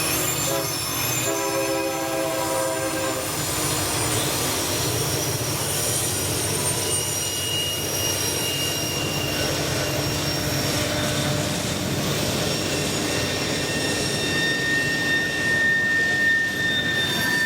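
Manifest freight train led by EMD diesel locomotives rolling past. A locomotive horn sounds a chord of several notes for about two seconds near the start. Then comes steady rolling noise of the railcars with high-pitched wheel squeal, one squeal growing stronger in the last few seconds.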